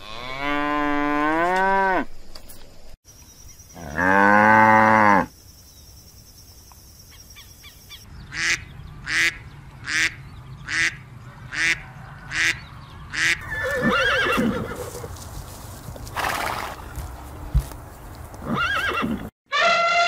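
A cow mooing twice, each moo long and rising then falling in pitch. Then a duck quacking about seven times, evenly spaced, followed by a looser mix of other animal calls.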